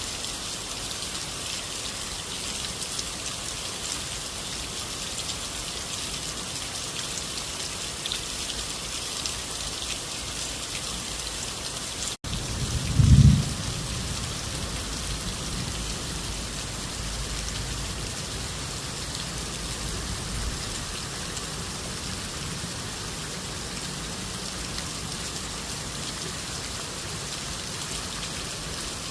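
Steady rain falling, an even hiss of many drops. About twelve seconds in the sound cuts out for an instant, then a low rumble of thunder swells and fades over several seconds.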